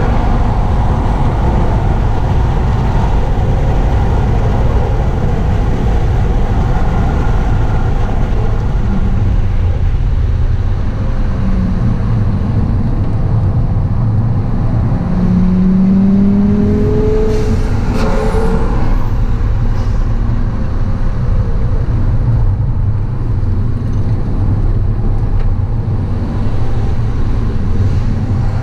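HSV Clubsport's supercharged 6.2-litre LSA V8 driven hard on a race track, heard from inside the cabin as a loud, dense low rumble with road noise. The engine pitch rises as the car accelerates about halfway through.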